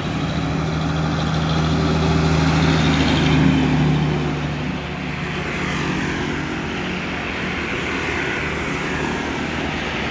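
Diesel truck engine running as the truck drives past on the road, loudest about three and a half seconds in, then easing off a little.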